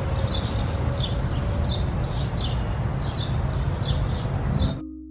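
A small bird chirping over and over, about two or three short chirps a second, over a steady low outdoor rumble. The sound cuts off near the end and marimba music begins.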